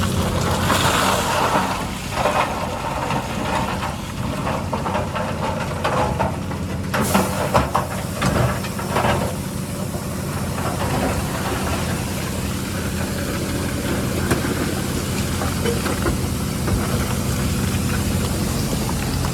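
Heavy diesel earthmoving machinery running steadily, with a cluster of clanks about seven to nine seconds in.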